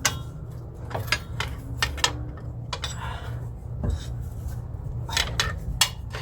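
Light metal clinks and knocks at irregular intervals, about eight of them, as metal parts and tools are handled around the front differential, over a steady low hum.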